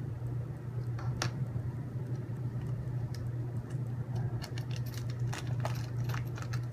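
Small hard robot-kit parts clicking and clinking as they are handled and fitted, a couple of light clicks about a second in and a cluster of them near the end, over a steady low hum.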